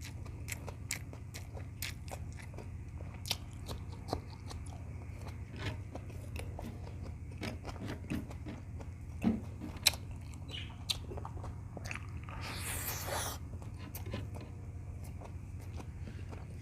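Close-miked chewing and wet mouth clicks of a person eating beef tocino with rice, with a brief hiss about three-quarters of the way through. A steady low hum runs underneath.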